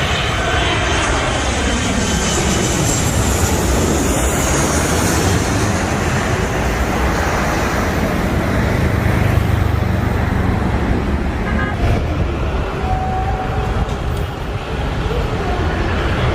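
Boeing 737-900ER airliner's CFM56 jet engines just after it passes on landing: the engine whine falls in pitch over the first few seconds, then gives way to a steady, loud rumble.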